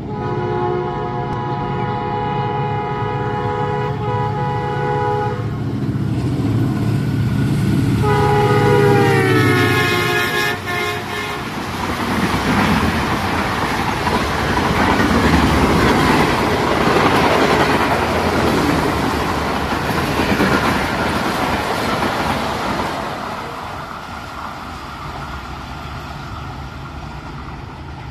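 ZCU-30 diesel-electric locomotive hauling the Tezgam Express passenger train: a long horn blast for about five seconds and a second shorter blast about eight seconds in that dips slightly in pitch, with the diesel engine running under both. The passenger coaches then rumble and clatter past on the rails for about twelve seconds before the sound fades.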